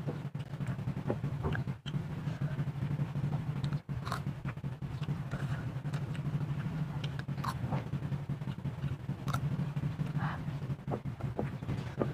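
Close-up eating sounds of fried instant noodles: chewing, with short clicks of a spoon and fork scraping the plate. A steady low hum runs underneath.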